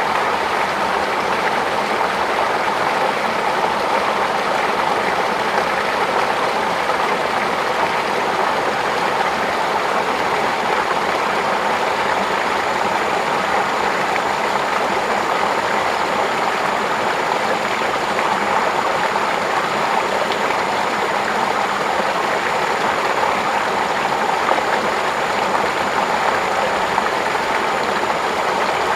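Water flowing steadily in a stream, an even, unbroken rush.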